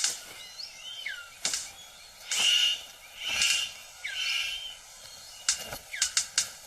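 Male superb bird of paradise displaying to a female: three harsh, rasping calls about a second apart, then a quick run of sharp clicks, several a second. Other forest birds chirp faintly underneath.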